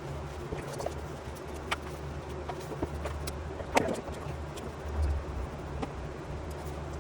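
Small hand digging tools striking and scraping into packed soil: scattered irregular knocks, the loudest about four seconds in, over a steady low hum.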